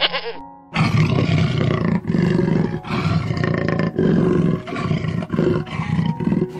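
A big cat growling and roaring in a run of rough, low bursts, each half a second to a second long with short breaks between them, starting about a second in. The tail of a lamb's bleat is heard at the very start.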